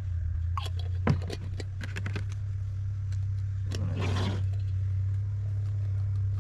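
Pancake batter being handled and mixed in a container: a few sharp knocks and clicks, then a longer scraping rush about four seconds in, over a steady low hum.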